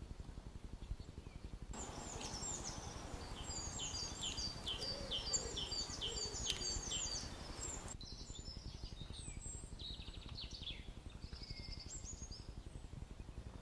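Small birds chirping, quick runs of short, high, falling notes, thickest in the first half and more scattered later, over a steady low rumble.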